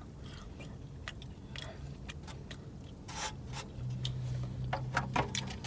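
Close-up mouth sounds of a person chewing a mouthful of food: scattered wet clicks and smacks, with a low steady hum for about a second and a half near the end.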